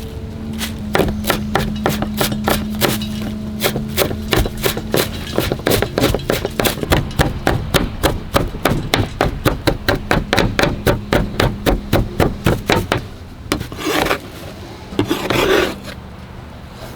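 Knife chopping on a wooden cutting board in a quick, even rhythm of about four strokes a second. The chopping stops about three-quarters of the way through, and two short scrapes follow near the end.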